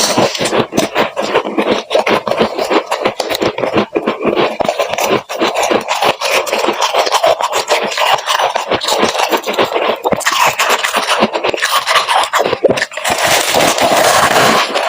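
Freezer frost being crunched close to the microphone: a dense, continuous run of rapid crackles and scrapes.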